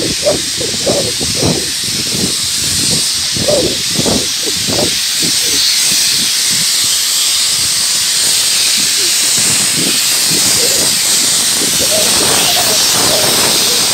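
Steam hissing steadily from the stopped 59 class steam locomotive 5917, loud and even, with some irregular lower sounds in the first few seconds.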